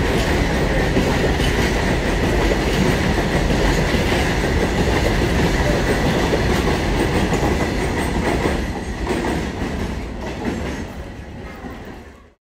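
Covered BCNA freight wagons rolling past at speed: a steady rumble of wheels on the rails with a thin, steady high whine. About eight seconds in it begins to fade as the last wagons pass and the train draws away, then it cuts off.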